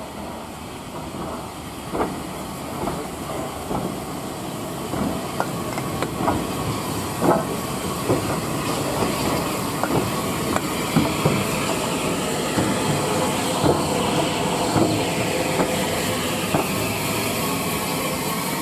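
Steam train on the move: a steady hiss of steam under irregular clicks and knocks of wheels over rail joints, building up over the first few seconds.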